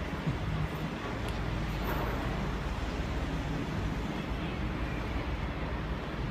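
Steady low rumble of traffic noise in a parking garage, with a few faint knocks.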